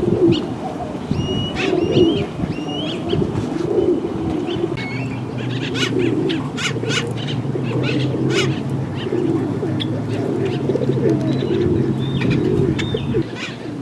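Pigeons cooing continuously in low, repeated phrases, with small birds chirping over them. A steady low hum joins a few seconds in and cuts off near the end.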